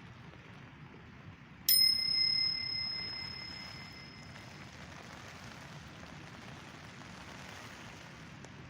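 A single bright bell-like ding, struck once about two seconds in and ringing away over about three seconds, over a steady faint background hiss.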